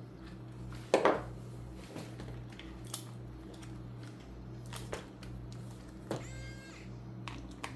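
Scattered light clicks and taps of a screwdriver working at the plastic chassis and servo mount of an RC car, the loudest about a second in, with a brief high squeak about six seconds in over a steady low hum.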